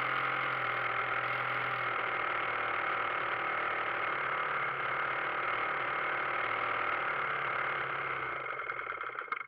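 Engine of a quarter-scale Hangar 9 Taylorcraft RC model airplane running steadily at low throttle. Near the end it sputters a few times and stops.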